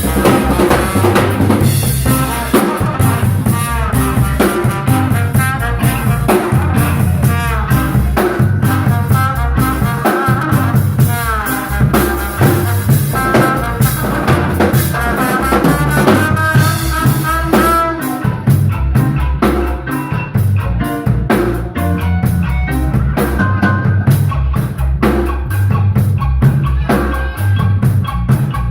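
Live instrumental band playing: drum kit with kick and snare, a bass line and a lead melody line. About two-thirds of the way through, the lead thins out and the drums come forward.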